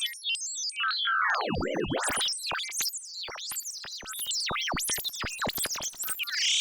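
Synthesized R2-D2-style droid beeps and whistles. Quick stepped tones give way to a falling swoop about a second and a half in, then a rapid run of chirps sweeping up and down in pitch.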